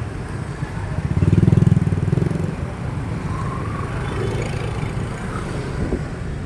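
Street traffic rumble, with a motor vehicle engine passing close and loudest about one to two seconds in, then steady traffic noise.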